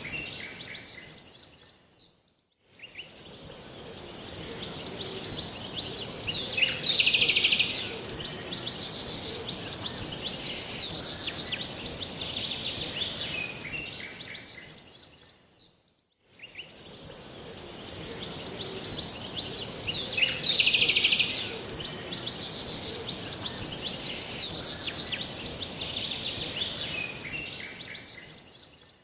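Wild birds chirping and singing over a steady high hiss, with a loud, rapid trill about seven seconds in and again about twenty seconds in. The same short recording loops: it fades out and back in twice.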